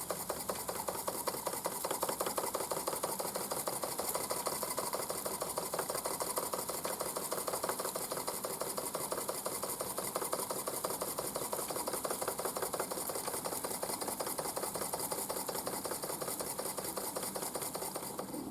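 Mamod SP8 James Watt beam engine, a small live-steam model engine, running with a fast, even clatter of its moving parts over a steady hiss of steam. It is on plenty of steam pressure but runs poorly.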